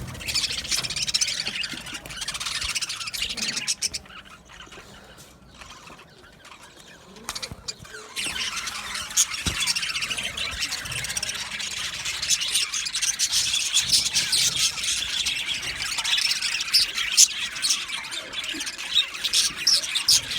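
A flock of male budgerigars chattering, with dense, high-pitched warbling and squeaky chirps. It thins out about four seconds in, then picks up again, busier, at around eight seconds.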